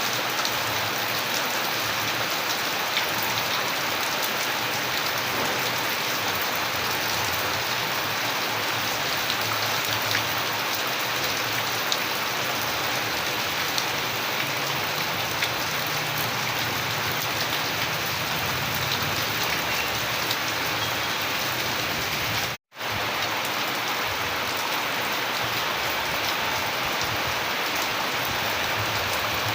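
Steady rain falling on surfaces, an even hiss with individual drops ticking through it. The sound cuts out for a split second about two-thirds of the way through, then resumes.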